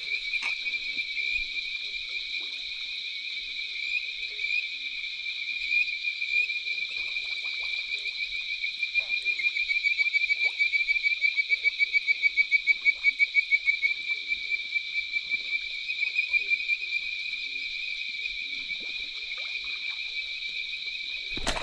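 A chorus of frogs calling in a swamp at night: a continuous high trilling, with a nearby caller pulsing loudly for several seconds about halfway through. There is a single knock near the end.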